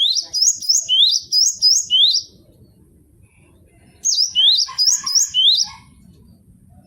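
Cinereous tit (gelatik batu) singing two bursts of song, each a quick run of rising whistled notes at about three a second lasting about two seconds; the second burst starts about four seconds in.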